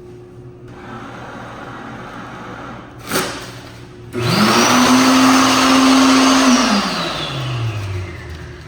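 Electric hand dryer starting about four seconds in: the motor spins up to a loud, steady whine with a rush of air, runs for a couple of seconds, then cuts off and winds down with falling pitch. A sharp click comes about a second before it starts.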